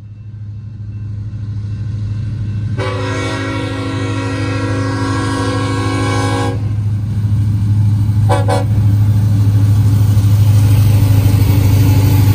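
Union Pacific freight train's lead diesel locomotives approaching and passing, their engines getting steadily louder. About three seconds in the horn sounds one long blast of almost four seconds, followed a couple of seconds later by a short toot.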